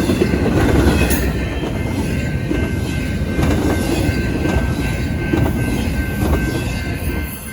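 Freight train rolling past close by: a heavy rumble of wheels on rail, with faint steady high wheel squeal. It eases off near the end as the train moves on.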